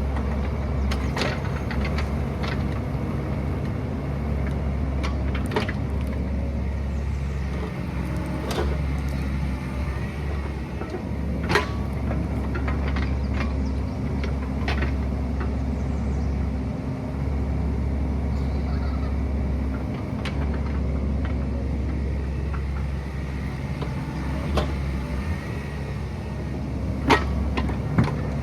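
Excavator's diesel engine running steadily, with scattered sharp clanks and knocks over it, the loudest about a third of the way in and two close together near the end.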